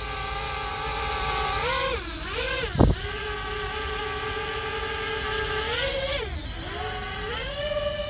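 Parrot Bebop 2 quadcopter's electric motors and propellers humming at a steady pitch, dipping and rising twice as the drone changes speed. A short thump about three seconds in.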